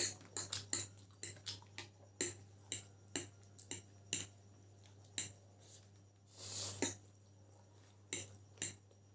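Irregular clicks and clinks of utensils against a plate of chicken chow mein while eating, with a longer rustling, hissing burst about two-thirds of the way through. A steady low hum runs underneath.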